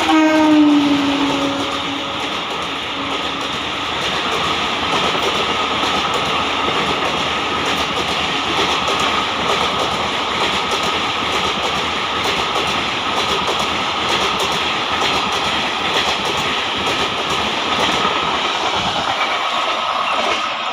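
An electric locomotive's horn drops in pitch as it passes and stops about a second in, followed by the steady rush and rhythmic clatter of an express train's coaches running past over the rail joints.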